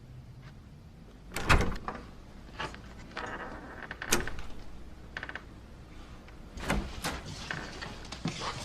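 A door being handled in a small room: a loud knock about one and a half seconds in, a short rattle a little after three seconds, then scattered clicks and light knocks.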